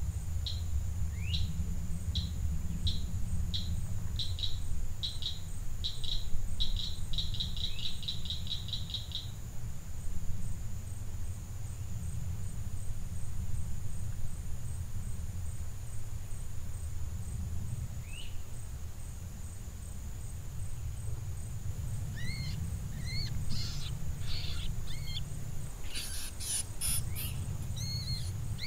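Outdoor ambience with birds calling: a repeated high chirp that quickens into a rapid trill, then scattered chirps near the end. Underneath is a steady low rumble and a thin, steady high tone.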